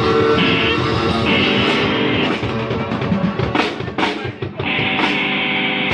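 Live band playing an instrumental passage with guitar and drum kit, with a short run of drum hits about halfway through over held chords.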